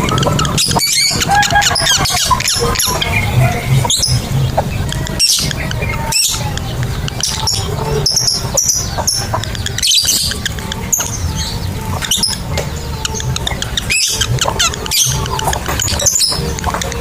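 Lovebirds chattering: a fast, continuous run of shrill, squeaky chirps and short trills, the long chatter (ngekek) used to set other lovebirds calling. A steady low hum runs underneath.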